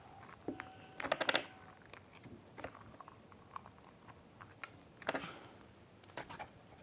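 Scattered light clicks and taps of painting tools and a paint container being handled, with a quick cluster about a second in and another about five seconds in.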